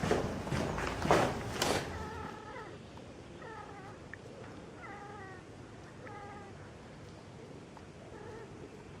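A cat meowing about five times, short meows that fall in pitch, after a loud rustling noise in the first two seconds.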